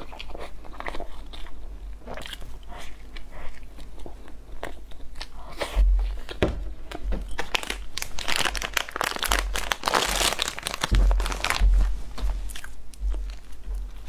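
Close-up chewing and biting of soft packaged jujube cake, with many small mouth clicks. From about eight to eleven seconds in, a plastic wrapper crinkles loudly as another cake is unwrapped.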